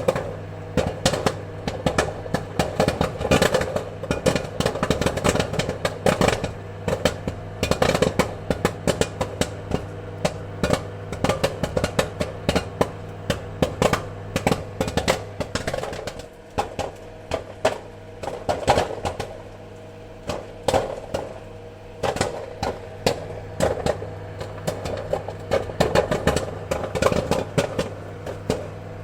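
Popcorn kernels popping in quick, irregular clusters of sharp pops over a steady low hum, thinning out for a few seconds midway before picking up again.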